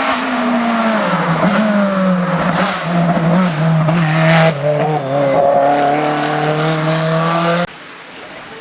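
Hillclimb race car's engine running hard, its pitch falling over the first two seconds and wavering, then holding steady. The sound cuts off suddenly near the end, leaving a much quieter engine sound.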